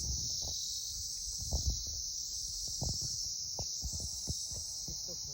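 Steady, high-pitched insect chorus chirring continuously, with scattered low thumps and knocks underneath.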